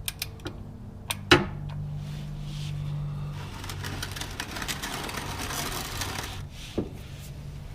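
Wrench ratcheting and clicking as an oil-change bolt is tightened to its 25 Nm spec. There are a few sharp clicks at first, a longer run of fast ratchet clicks in the middle, and a single click near the end, over a steady low hum.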